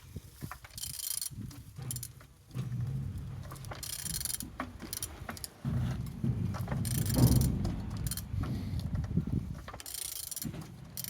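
A removed engine being turned over by hand with a wrench on the crankshaft: a low rumble from the rotating internals in long strokes, with short clicking bursts about every three seconds between strokes. The engine turns freely.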